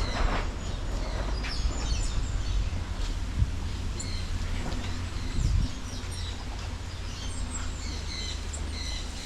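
Small birds chirping in short repeated high calls, over a steady low rumble.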